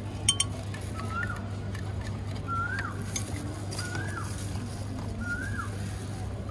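A bird calls a short note that rises and then drops, about every second and a half, over a steady low hum. A spoon stirs in a plastic cup, with a couple of clinks near the start.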